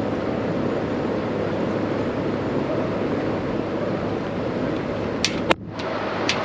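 Steady whooshing of a running fan-type machine with a low hum. A few sharp clicks come near the end, and the sound briefly cuts out about five and a half seconds in.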